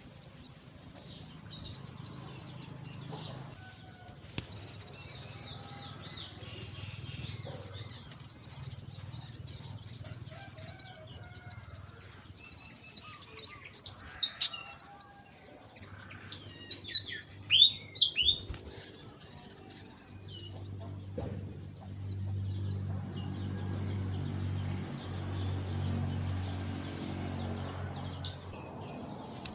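Birds chirping, with a loud flurry of sharp calls about halfway through. A low, steady hum sets in during the second half.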